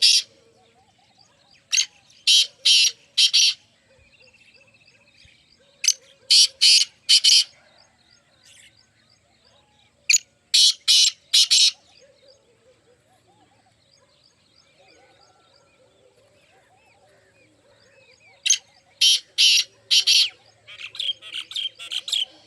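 Partridge (teetar) calling: short phrases of about four loud, harsh, evenly spaced notes, repeated every few seconds, with a longer run of notes near the end.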